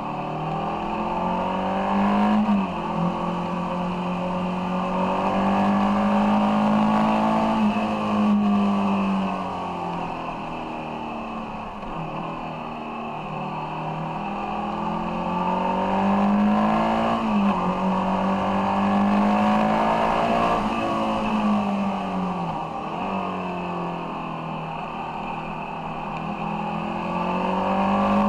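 Ducati Monster 696's air-cooled L-twin engine heard from on board while riding, its note rising and falling with the throttle and dropping suddenly several times.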